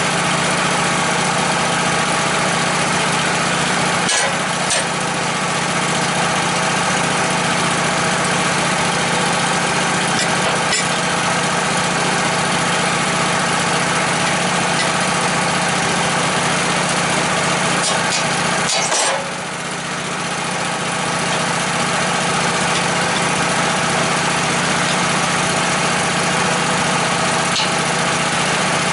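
An engine running steadily, with a few short clicks or knocks over it, the strongest about two-thirds of the way through, after which the engine sound briefly drops a little.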